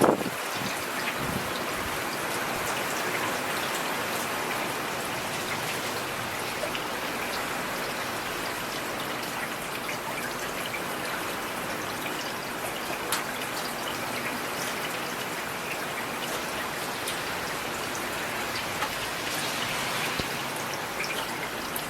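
Steady rain: a dense, even hiss of falling drops with scattered single drop taps. A low rumble dies away in the first instant.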